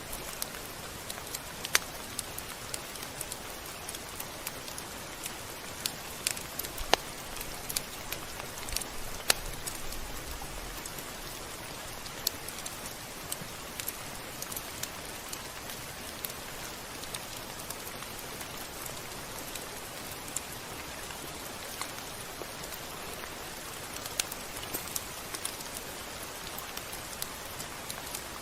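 Steady rain falling, with scattered sharp drop ticks, a few louder than the rest.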